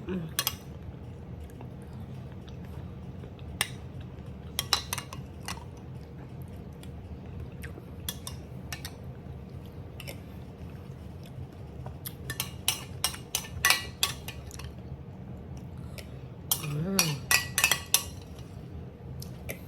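Spoon clinking and tapping against bowls and dishes in scattered light strikes, sparse at first and busier in the last third.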